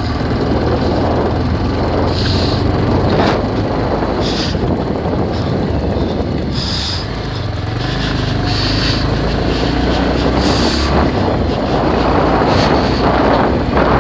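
Bajaj Pulsar 220F's single-cylinder engine running as the motorcycle rides, under heavy wind rush on the microphone; the engine note shifts about eight seconds in. Short high chirps come through now and then.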